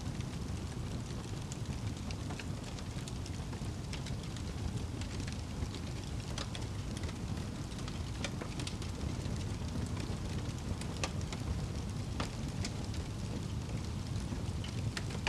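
Wood fire burning, with scattered sharp crackles and pops over a steady low noise.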